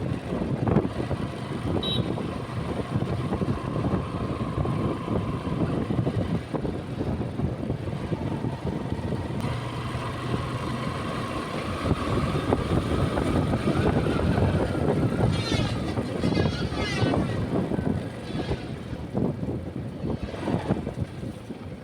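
Motorcycle running while being ridden on a rough road, with heavy wind and road noise; a faint engine whine climbs slowly in pitch about halfway through.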